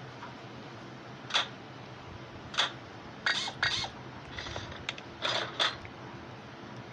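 A series of sharp metallic clicks and clinks, about a second apart with a quicker cluster in the middle: small parts or tools being handled and set down during suspension work.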